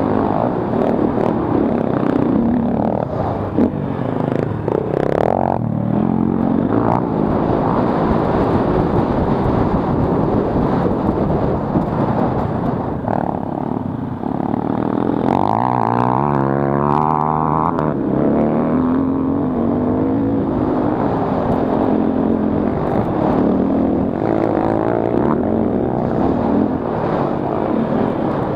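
KTM 450 EXC off-road motorcycle's single-cylinder four-stroke engine running hard on a motocross track, its pitch rising and falling as it revs through the gears, most clearly about halfway through.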